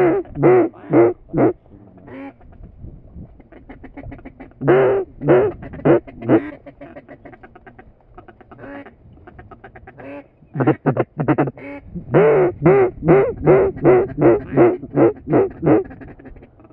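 Duck quacking in runs of short, loud quacks: a few at the start, a short burst midway, and a long rapid series in the second half.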